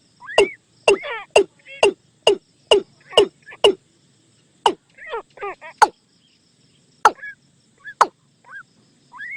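Watercock calls: a run of sharp, steeply falling notes, about two a second for the first few seconds and then more spaced out, with short bubbling warbled phrases in between.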